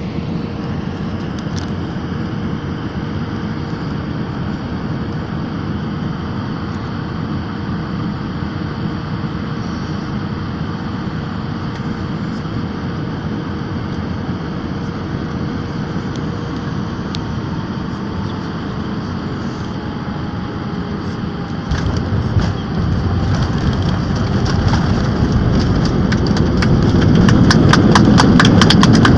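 Airliner cabin noise on final approach: steady engine and airflow noise with a faint whine that falls slowly in pitch. About two-thirds of the way in a low rumble comes in abruptly and grows louder, with fast rattling near the end: the wheels touching down and the plane rolling out on the runway.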